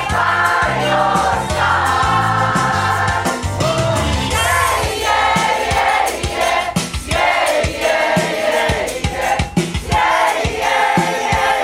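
A pop choir singing, many voices together, over an instrumental backing with a bass line and a beat that grows more prominent after the first few seconds.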